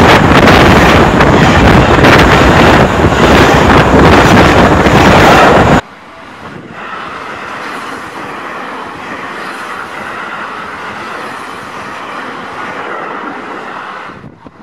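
Seibu 001 series Laview electric limited express train passing at speed right beside the track: a loud rushing rumble with a clatter of wheels on rail. It cuts off abruptly about six seconds in and gives way to the quieter, steady rumble of another Laview approaching and running past.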